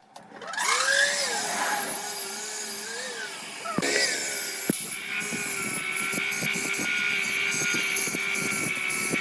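Electric power tool starting up and running, its motor pitch dipping and recovering again and again as the load changes.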